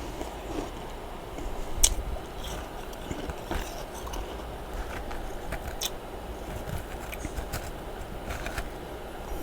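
Freezer frost being chewed: scattered crisp crunches and clicks, the sharpest about two seconds in, over a steady low background noise.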